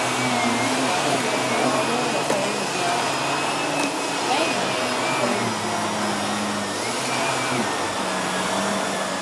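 Household vacuum cleaner running steadily, its motor whine stepping slightly up and down in pitch as the airflow changes while it is pushed over carpet. A few faint ticks of fine dirt being sucked up.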